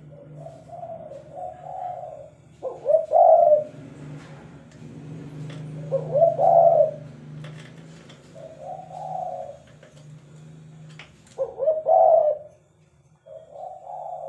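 Spotted doves (tekukur) cooing, a run of short coo phrases repeated every second or two, the loudest about three, six and a half and twelve seconds in. A steady low hum runs underneath.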